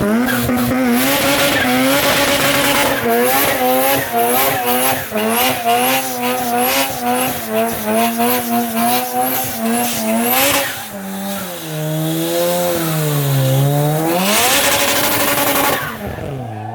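Car doing a burnout: the engine revs up sharply and is held high with a wavering pitch over the hiss of spinning, squealing tyres. About eleven seconds in the revs drop and wander, then climb again before falling away near the end.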